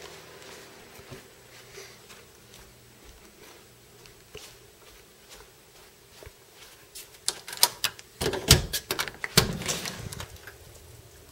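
A burst of sharp clicks and knocks from about seven to ten seconds in, over a faint background with a few scattered light clicks.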